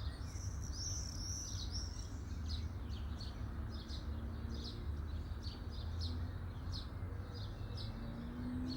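Small birds chirping, with a run of warbling song near the start and short high chirps repeated every fraction of a second, over a low steady background rumble.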